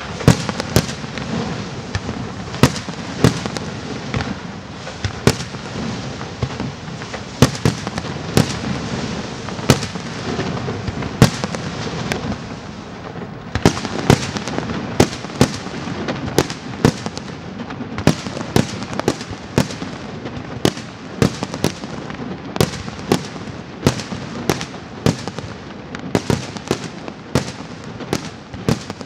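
Fireworks display: aerial shells bursting in sharp reports, irregular and coming faster in the second half, over a continuous crackle.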